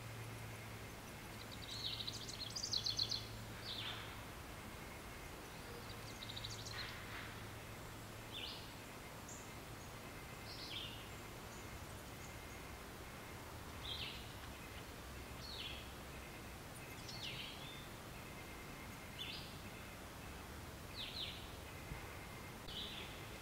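Birds chirping in an outdoor nature ambience, short high calls every second or two with a louder run of quick notes about two seconds in, over a steady background hiss and a faint low hum.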